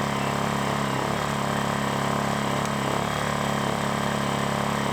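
Lifan ESI860i-CA 40cc inverter generator running steadily at an even pitch while it charges a 12-volt battery at about 2.5 amps.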